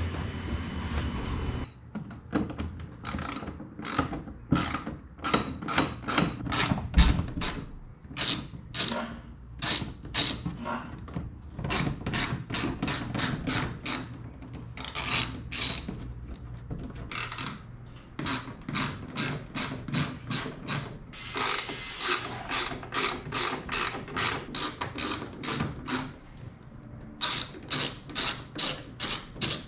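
Hand ratchet wrench clicking in runs of quick clicks with short pauses as bolts are loosened, after a steady low rumble in the first couple of seconds.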